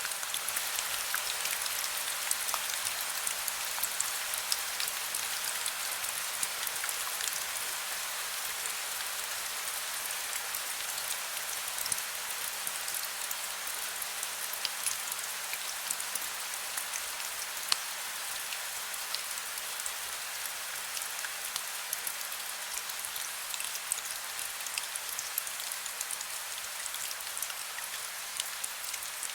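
Heavy rain falling steadily, a dense hiss with many sharp individual drop ticks scattered through it.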